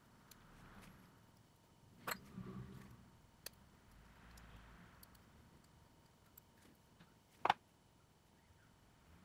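Quiet handling of small repair tools and phone parts, with a few sharp clicks and taps: one about two seconds in followed by a brief low rustle, a smaller one about three and a half seconds in, and the loudest about seven and a half seconds in.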